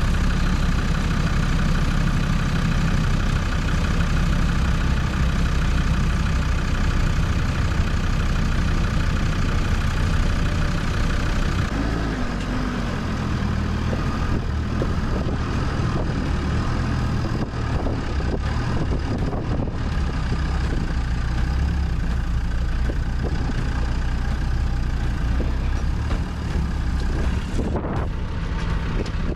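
Off-road 4x4 truck engine running steadily at low revs, with a brief rise and fall in pitch about twelve seconds in.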